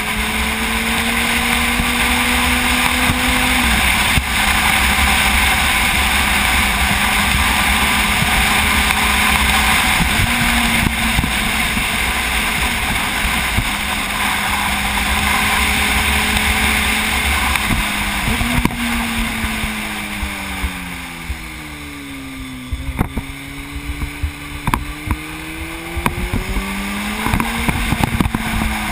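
Sport motorcycle engine running at steady high revs under loud wind rush, with a brief break in the engine note about four seconds in. Past the middle the revs fall away steadily, then climb again near the end.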